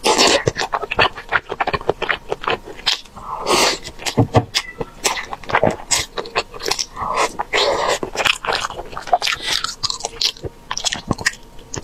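Close-miked eating of braised chicken wings: wet chewing and biting with many sharp mouth clicks, and a few longer noisy stretches.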